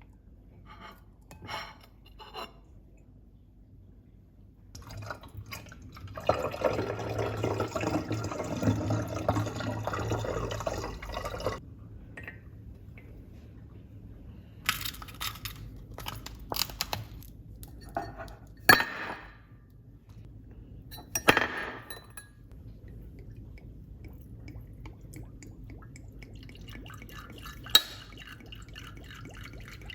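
Liquid poured steadily into a glass vessel for about five seconds while making cold brew coffee, followed by a series of sharp glass clinks and knocks.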